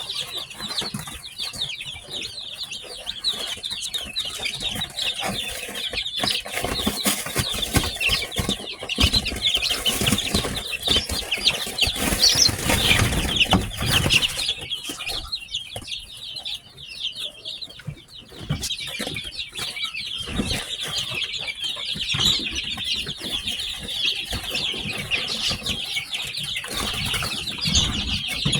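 A brood of newly hatched chicks chirping continuously, many rapid high peeps overlapping. Through the middle there is a stretch of louder scuffling, wing flapping and bumps.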